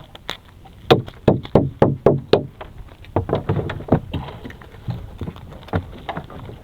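A quick run of sharp knocks, about four a second, followed by a looser patter of lighter knocks.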